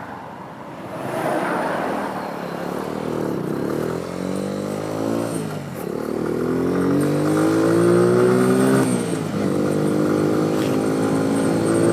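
Motorcycle engine accelerating through the gears. The pitch climbs, drops sharply at an upshift about five and a half seconds in and again about nine seconds in, then climbs once more.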